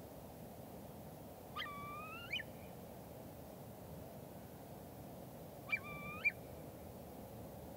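A bird calls twice, about four seconds apart. Each call is a held, harsh note that hooks sharply upward at the end, over a steady low background hum.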